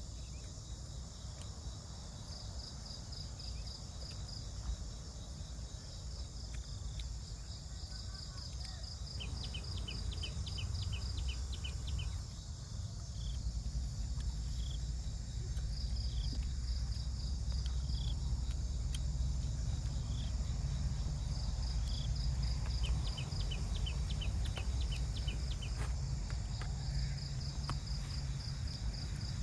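Crickets or other insects chirping in repeated short, high trains, joined twice by a faster run of lower clicks, over a steady low rumble that grows louder.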